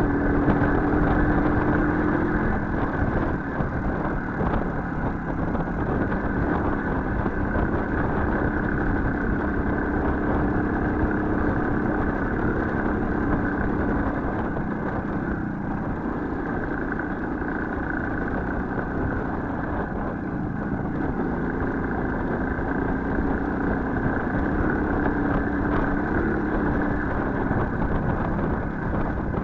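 Small motorcycle engine running steadily, its pitch shifting slightly up and down.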